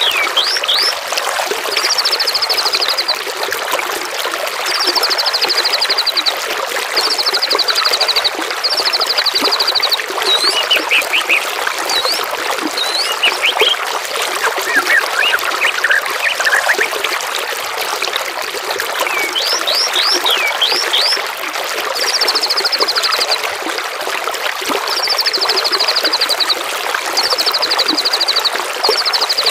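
Small songbirds calling over a steady trickle of running water: short trilled phrases, each about a second long, repeat every couple of seconds, mixed with quick sweeping whistles.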